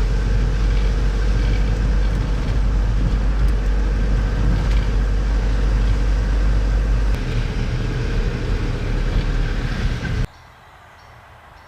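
Van driving on the road: a loud, steady low rumble of engine and road noise, which cuts off suddenly about ten seconds in, leaving a much quieter background.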